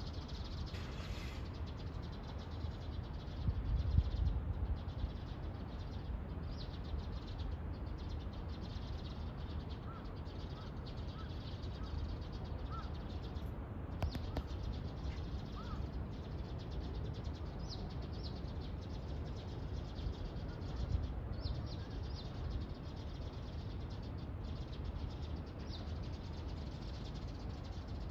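Birds chirping with short, scattered calls over a steady outdoor hiss and low rumble, with a louder low rumble about four seconds in.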